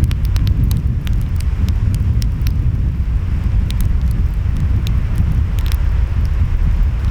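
Wood fire crackling, with many sharp irregular pops and snaps, over a steady low rumble of ocean waves and wind.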